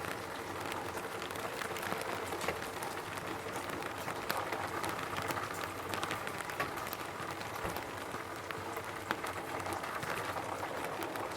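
Raindrops falling on a roof: a steady patter with many separate sharp drop hits scattered throughout.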